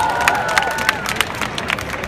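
Street crowd cheering and clapping: shouts and whoops trail off in the first second, leaving scattered, irregular hand claps over a crowd murmur.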